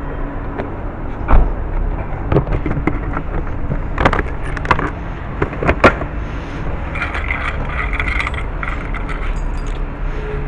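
Refuelling at a petrol station forecourt: several sharp metallic clanks and knocks from handling the pump nozzle and filler, the loudest about a second and a half in and again near six seconds, over a steady low rumble. A high buzzing hum runs for a couple of seconds in the latter part.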